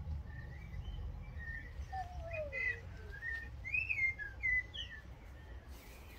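Small songbirds chirping and whistling in short, varied phrases, busiest through the middle, over a low steady rumble.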